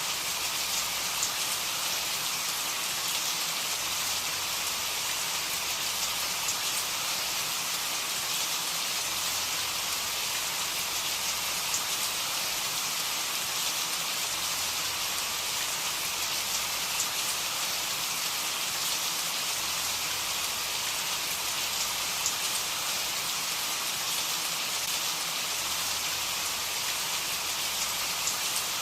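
Steady rain falling and pattering on a surface, an even hiss with scattered droplet ticks.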